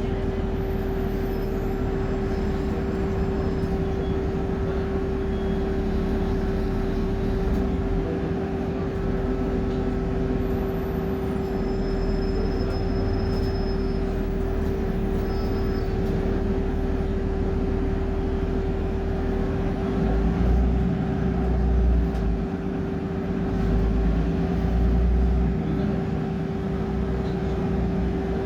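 A BMC Procity city bus with a Cummins diesel engine, heard from inside while riding: the engine rumbles under a constant whine. The low rumble swells a few times near the end.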